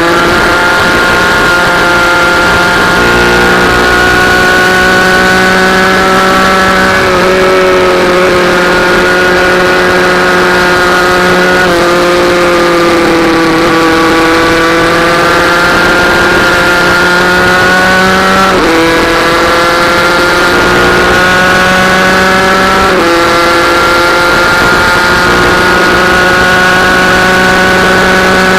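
Small racing minibike engine running hard at high revs. Its pitch holds steady for long stretches, with sudden steps about five times.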